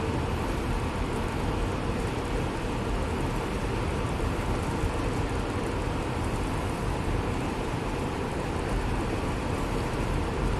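Steady engine and road noise of a bus cruising, a continuous rumble with a heavy low end and no changes.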